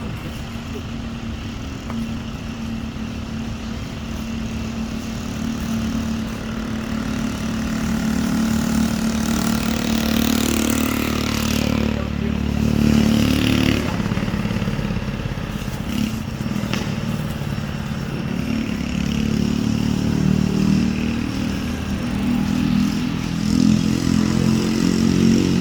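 An engine running steadily, growing louder over the first ten seconds.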